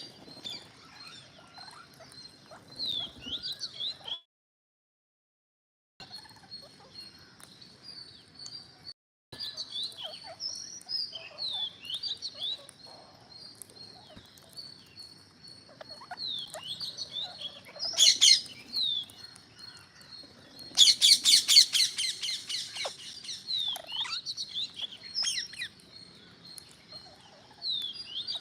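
Green parrots chirping and calling, many short rising and falling chirps overlapping. About two-thirds of the way through there is one loud call, followed shortly by a loud harsh burst of rapid chattering notes lasting about two seconds. The sound cuts out completely twice in the first third.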